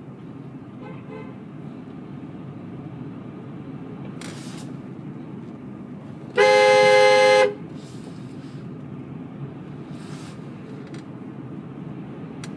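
A car horn sounds once in one steady blast of about a second, roughly halfway through, over steady in-cabin road and engine noise.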